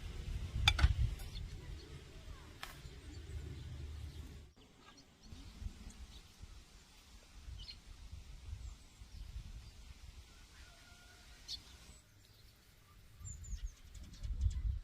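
Outdoor ambience: faint, short bird chirps over a low rumble, with a few sharp clicks in the first seconds.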